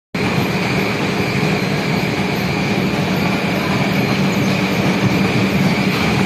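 Brick-making machinery running with a loud, steady mechanical din, a low hum and a high whine held constant over it, starting abruptly.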